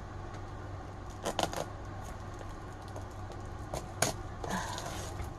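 A few light clicks and rustles of a diamond painting kit's packaging being handled, over a low steady hum.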